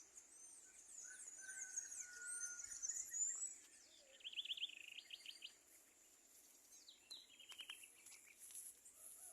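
Several birds calling and singing: quick high chirps and glides, a short whistled note, and fast trills in the middle and near the end. A steady high insect drone runs underneath.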